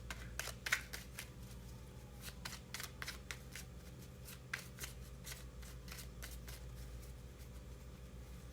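Tarot cards being shuffled and handled: a quick, uneven run of short papery flicks and snaps.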